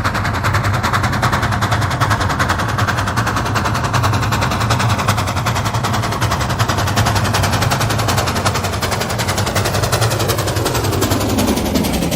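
Steam locomotive exhaust beating hard and fast as the engine works up a gradient at full power, a rapid, even stream of sharp chuffs over a heavy rumble. The sound changes just before the end.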